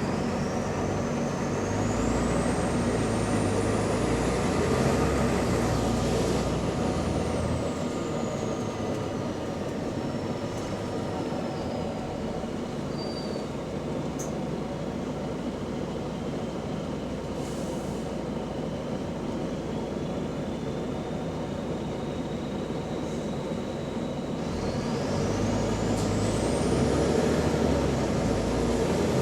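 Volvo double-decker bus engine pulling under load, with a high whine that climbs with the revs and then sinks away as it eases to a quieter run. Near the end it builds and climbs again. The bus has an exhaust leak.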